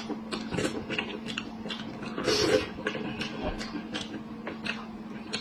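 Close-up chewing of spiced sheep's head meat: a quick, irregular string of small mouth clicks, with a louder patch about two seconds in. Near the end, hands pick through the meat on the tray.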